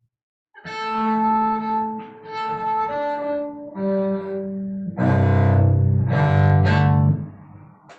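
A bowed string instrument playing a few long held notes one after another, then louder double stops, two strings sounding together, for about two seconds before fading out near the end.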